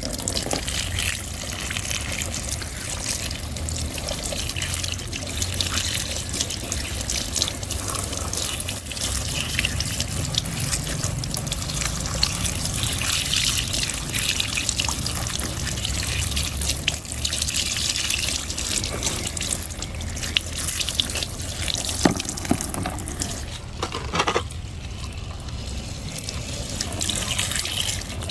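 Water running and splashing steadily as muddy plastic toy vehicles are rinsed clean, with a couple of short knocks near the end.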